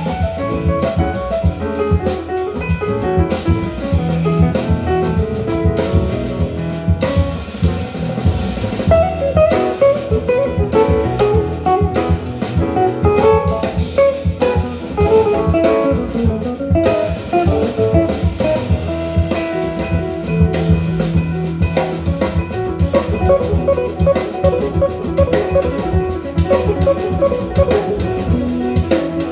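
Small-group jazz with electric guitar, double bass and drum kit, played back over Fostex GX250MG hi-fi loudspeakers in a listening room and picked up by a phone microphone at the listening seat.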